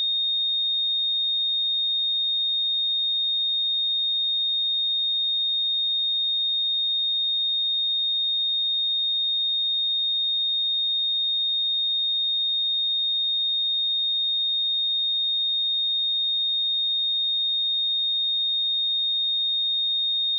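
Pure 3692 Hz sine-wave test tone, a single steady high-pitched note held at constant level.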